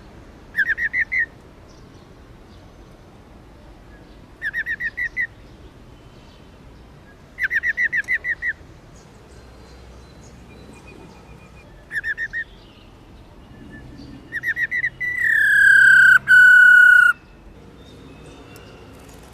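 Female black-throated laughingthrush giving its 'ro ro' call: five short rapid rattles of repeated notes, a few seconds apart. Near the end comes a louder long whistle that slides down slightly and is held for about two seconds.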